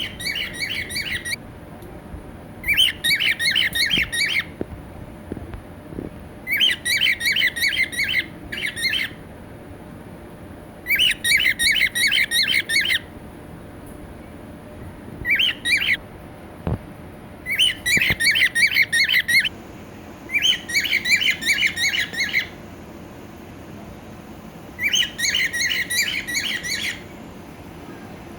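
Cockatiel squawking in bursts of rapid repeated calls, each burst a second or two long, coming again every few seconds.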